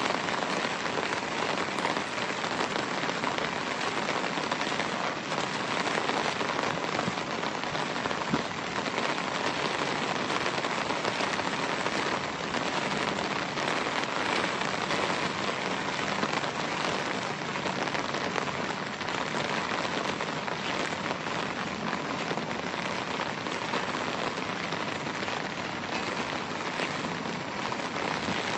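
Steady rain falling on wet ground and vegetation, a dense, even patter of drops.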